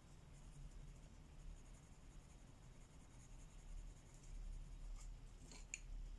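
Faint scratching of colouring strokes on a paper page, with a few small clicks near the end.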